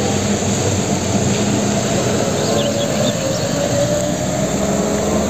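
Heavy tanker truck's diesel engine running as it drives along a wet road, with a steady hiss of tyres on the wet surface and the engine pitch rising slightly near the end. A bird chirps a few times about halfway through.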